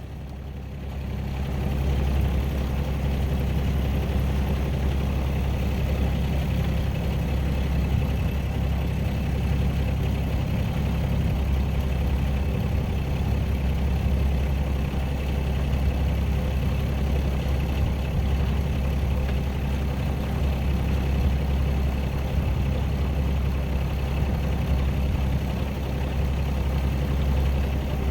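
Aircraft engine droning steadily in flight, fading up over the first two seconds and then holding an even pitch.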